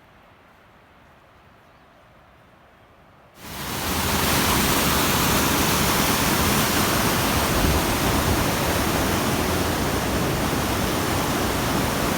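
Faint background, then about three and a half seconds in a loud, steady rush of water from a mountain waterfall cuts in suddenly.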